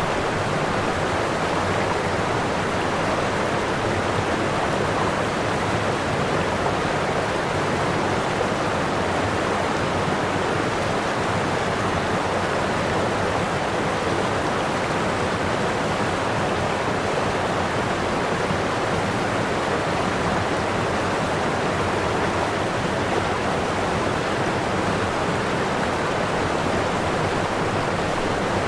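Waterfall: water pouring and crashing in a steady, even rush with no change.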